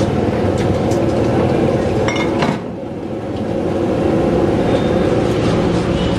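Steady low rumbling noise with several sharp metallic clinks, one ringing clink about two seconds in.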